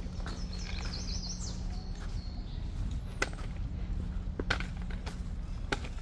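A bird chirping in quick high notes during the first two seconds, over a steady low rumble, with about four sharp clicks in the second half.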